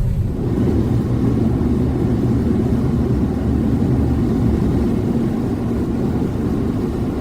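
Steady road and tyre rumble heard inside the cabin of a 2014 Chevrolet Spark EV driving on a wet, slushy road, with no engine note since the car is electric. The rumble grows fuller a moment in.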